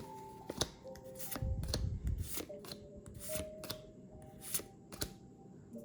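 Trading cards being handled and flipped through, a string of crisp card snaps and flicks with some rustling about a second and a half in, over faint background music.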